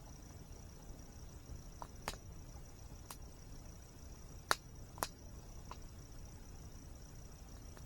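Campfire crackling with a few sharp pops, the two loudest close together about halfway through, over a steady high-pitched insect trill and a low steady rumble.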